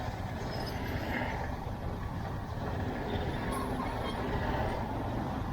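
Steady engine and road rumble of a motorbike ride in traffic.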